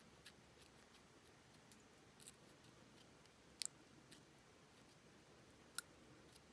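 A handful of faint, sharp metallic clicks from small tools and lock parts being worked while pins are pushed back into a Brady compact lockout padlock, with near silence between them.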